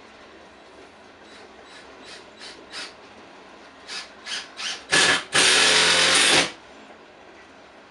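Loaded coal hopper cars rolling past in a steady low rumble. Over it comes a run of short bursts of harsh machine noise, growing louder and closer together, ending in a loud burst held for about a second.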